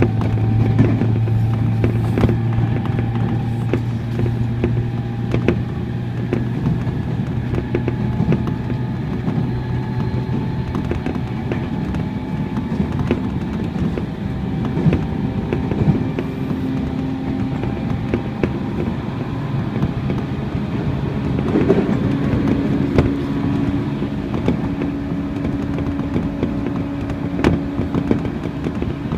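Running sound of a Tobu 30000 series electric train with permanent-magnet synchronous traction motors: the motor and inverter hum and whine in several steady tones that slowly climb in pitch as speed builds. Wheel rumble and sharp clicks from the rails run underneath; a strong low hum fades out about twelve seconds in.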